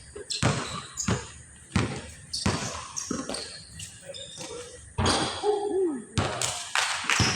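Basketballs bouncing on a hard court: about ten sharp thuds at uneven intervals.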